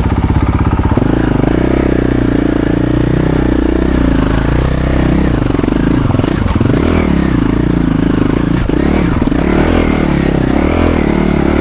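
Dirt bike engine running at low revs, then from about a second in pulling harder with the revs rising and falling as the rider works the bike along a muddy track.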